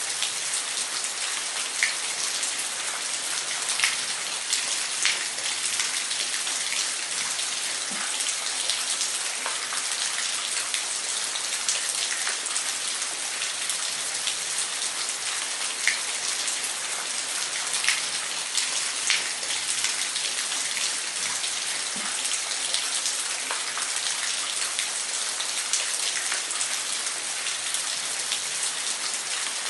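Waterfall: a steady rush of falling water, with scattered sharp splashes or drips standing out every few seconds.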